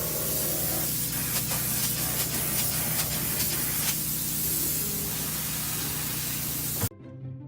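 A steady, loud spraying hiss over a low steady hum, with scattered clicks; it cuts off suddenly near the end.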